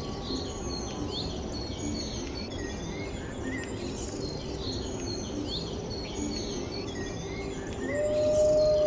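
Steady outdoor ambience with small birds chirping repeatedly. Near the end a wolf starts a long howl, held at one pitch.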